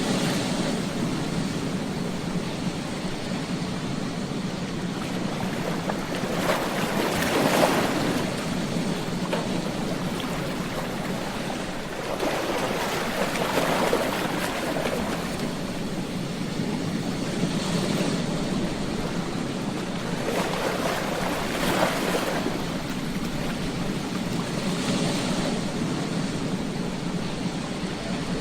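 Ocean waves breaking on a beach: a steady wash of surf that swells every few seconds as each wave crashes and then falls back.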